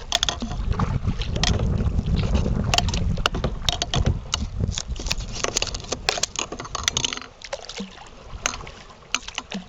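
A kayak being paddled, with many sharp paddle knocks and splashes. Wind rumbles on the action-camera microphone and eases off after about seven seconds.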